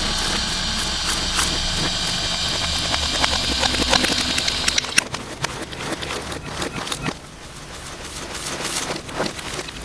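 Slime being squished and worked by hand, a dense run of wet clicks and pops, heavily distorted. About five seconds in it changes abruptly to a quieter, sparser crackle of sticky clicks.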